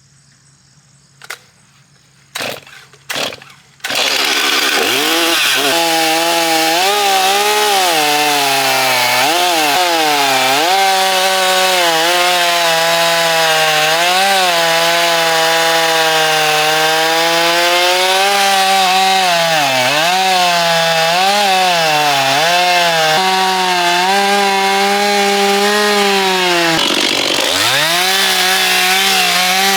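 Gasoline chainsaw: a few short sputters, then it starts about four seconds in and runs loudly, its engine pitch rising and falling with several sharp dips.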